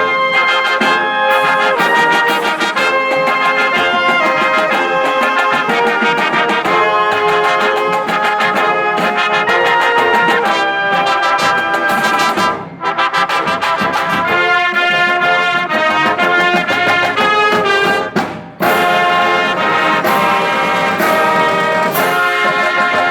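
High school marching band playing, the brass section carrying the tune, with two brief breaks in the music about twelve and eighteen seconds in.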